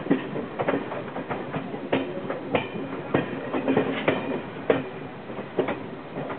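Passenger train running along the track, heard from inside the carriage: a steady rumble with frequent sharp, irregular knocks and rattles from the wheels and car body.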